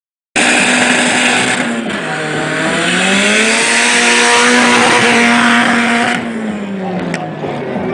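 Turbocharged Nissan Sentra's engine running at high revs under a loud hiss. The revs dip briefly about two seconds in, climb back and hold, then fall away with the hiss near the end.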